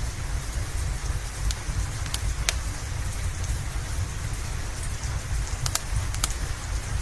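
Steady rain hiss over a low rumble, with a few sharp pops from a crackling wood fire scattered through it.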